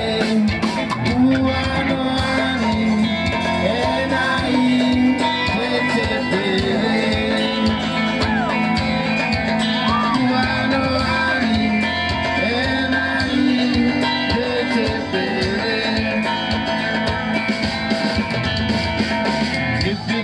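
A live band playing a song, with guitar over a steady bass line and a singing voice.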